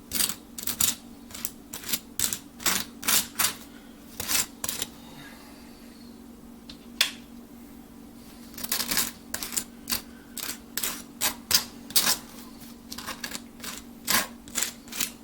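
Knife scraping butter across a toasted English muffin: a run of short, crisp scraping strokes that pause for a few seconds in the middle, then pick up again. A steady low hum runs underneath.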